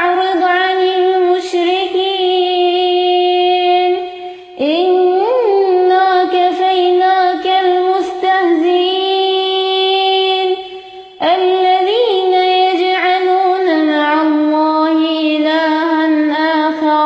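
A woman reciting the Quran in melodic tajwid style. She holds long, steady notes with small ornaments, in three phrases broken by short breaths about four and eleven seconds in.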